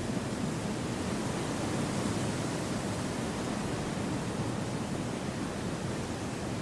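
Gentle wind through a forest: a steady, even rushing noise with no gusts or separate sounds.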